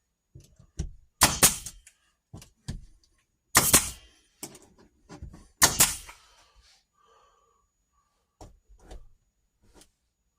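Staple gun driving staples through drywall into the wall studs: three loud sharp shots about two seconds apart, with lighter clicks and knocks between them, then a few faint taps.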